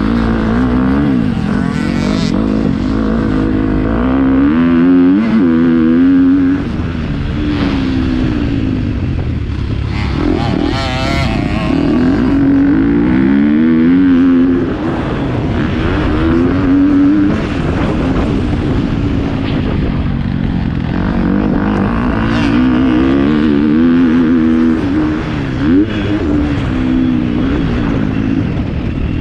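Motocross dirt bike engine revving hard and falling off again and again as the rider accelerates, shifts and backs off around the track. It is heard up close from an onboard GoPro, loud and continuous.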